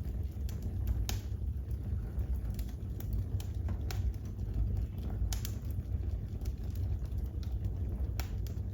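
Wood fire crackling in a fireplace: irregular sharp pops and snaps over a steady low rumble, with the strongest pops about a second in and about five seconds in.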